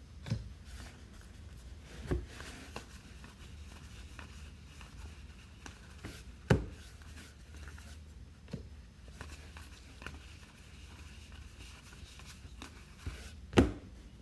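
Baseball trading cards and pack wrappers being handled at a table: soft rustling with a few separate taps or knocks, the loudest near the end, over a low steady hum.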